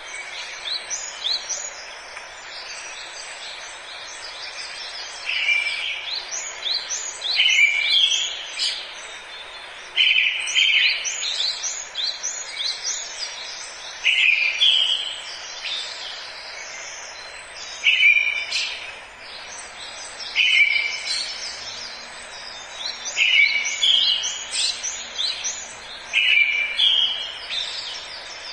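Forest birds singing, one song phrase about every two to three seconds, each a loud lower note followed by quick high chirps, over a steady background hiss.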